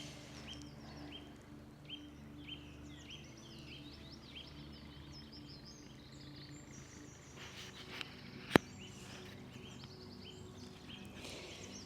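Small birds singing outdoors: a short chirp repeated about twice a second, with higher warbling notes over it. A faint low steady hum lies underneath, and a single sharp click is heard about eight and a half seconds in.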